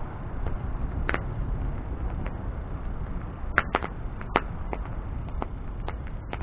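Wood bonfire burning: a steady low rush of flame under irregular sharp pops and crackles of burning wood, with a cluster of louder pops a little past the middle.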